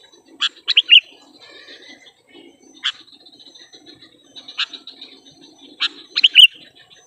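Sooty-headed bulbul (kutilang) giving sharp chirping calls: a quick run of notes about half a second in, single sharp chirps around the middle, and another quick run near the end.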